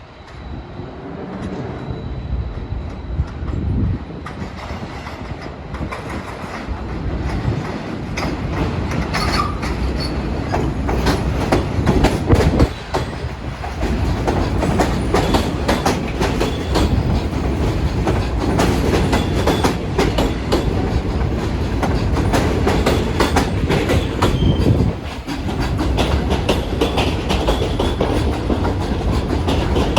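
New York City Subway A train running on the rails, its wheels clattering over rail joints in quick clicks. The sound builds over the first dozen seconds, then stays loud with two brief dips.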